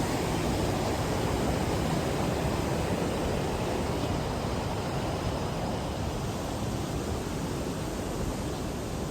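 Steady rushing noise with no distinct events, heaviest in the low range, easing slightly toward the end.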